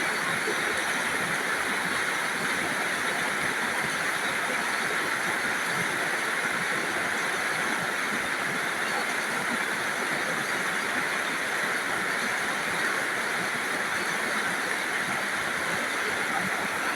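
Steady heavy rain falling, an even hiss with no change in strength.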